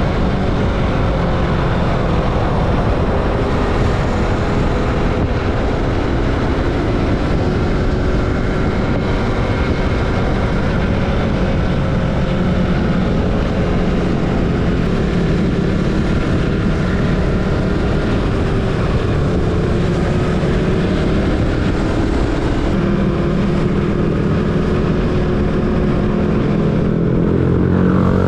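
Yamaha MT-25's parallel-twin engine through an Akrapovic slip-on exhaust with its silencer fitted, running steadily while the bike is ridden, its pitch drifting up and down with the throttle. The revs rise near the end.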